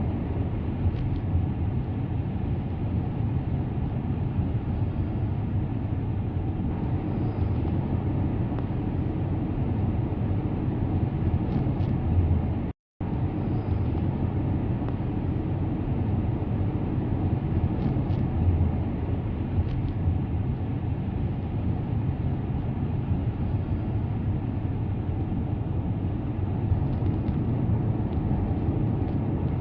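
Car on the move: a steady low rumble of road, tyre and engine noise heard from inside the car. The sound cuts out completely for a moment about halfway through.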